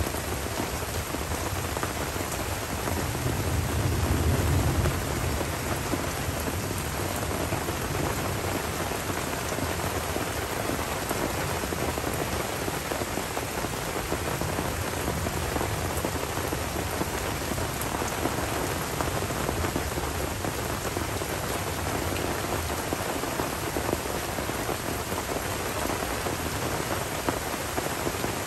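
Steady tropical rain falling on forest foliage and a puddled dirt track. A low rumble of rolling thunder swells about three to five seconds in, then fades back under the rain.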